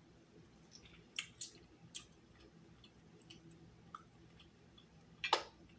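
Faint mouth sounds of someone eating seafood: a few soft clicks and wet smacks while chewing, the sharpest about five seconds in.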